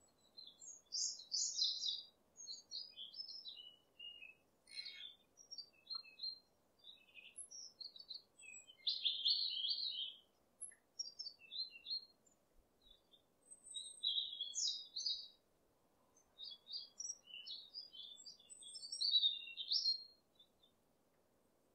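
Songbirds chirping and singing: a busy run of short, high chirps and trills, one after another, with brief pauses.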